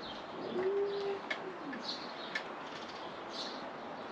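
A pigeon cooing once: a low note held for about half a second that then slides down. Small birds chirp faintly in the background, and there are two faint clicks.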